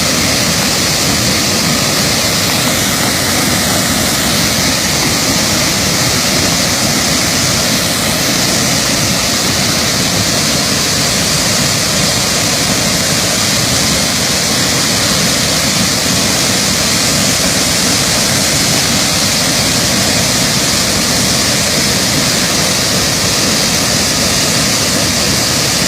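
A waterfall swollen in flood: a loud, steady rush of falling water that does not let up.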